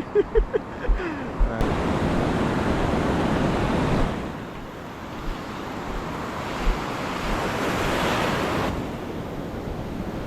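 Surf washing onto the shore, rising and falling in swells a few seconds apart, with wind buffeting the microphone. Faint voices and low wind thumps come in the first second or so before the wash sets in.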